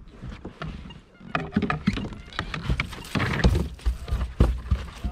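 Irregular knocks, clicks and low thumps on a kayak with rustling, as a freshly netted trout, the landing net and the lure are handled on board.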